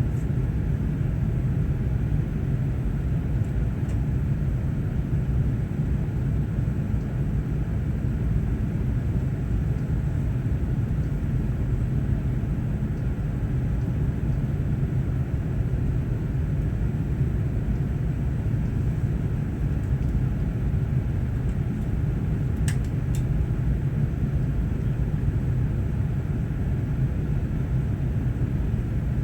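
Steady low rumble inside the cabin of a Korean Air Airbus A380 from its engines and airflow, even throughout, with two faint ticks about two-thirds of the way through.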